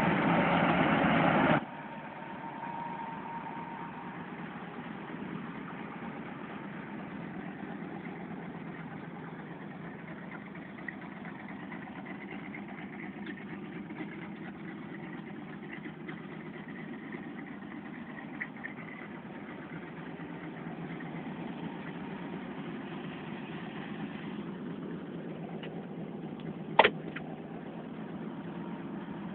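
1973 Chevrolet Nova's engine idling steadily. There is a louder burst in the first second and a half and a single sharp click near the end.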